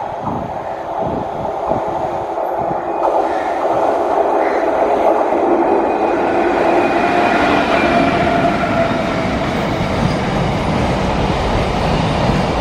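A long container freight train hauled by a WAG-7 electric locomotive approaching and passing, its wheels rumbling on the rails. The rumble grows over the first few seconds and then holds steady, with faint whining tones over it.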